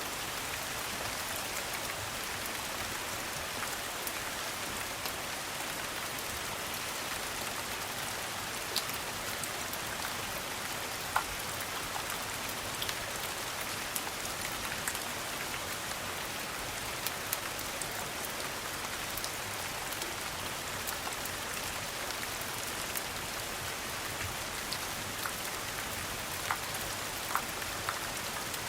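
Steady rain falling, an even hiss, with a dozen or so sharp crackles from a wood fire scattered through it.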